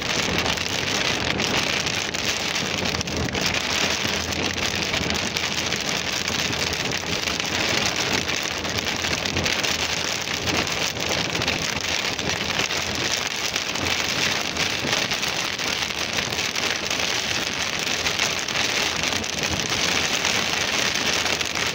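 Very heavy rain pelting the roof and windshield of a moving car, heard from inside the cabin as a dense, steady patter of drops over the hiss of tyres on the wet road.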